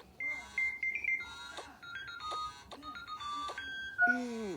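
Alarm ringtone playing a melodic tune of short electronic notes stepping between pitches. About four seconds in, a brief falling vocal sound cuts across it.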